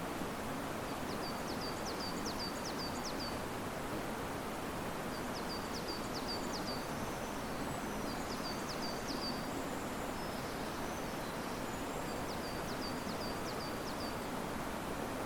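Steady rushing of a river with wind in the riverside trees. A small songbird sings four short phrases of quick, high repeated notes over it.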